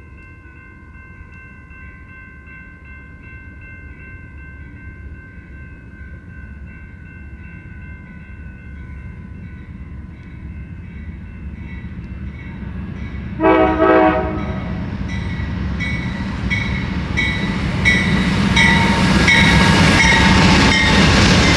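Amtrak California Zephyr diesel passenger train approaching, its rumble building steadily louder. About thirteen seconds in, the locomotive horn gives two short blasts in quick succession. Near the end a rapid repeated ringing, the locomotive bell, sounds over the rumble.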